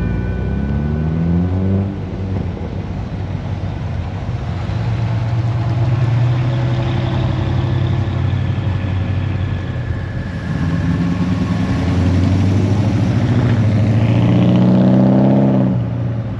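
Custom 1949 Chevrolet pickup's engine running and accelerating, its pitch climbing at the start and again over several seconds near the end, with steadier running between.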